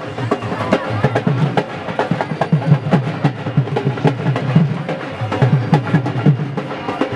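Dhol drumming in a fast, dense rhythm of strokes, with other music under it.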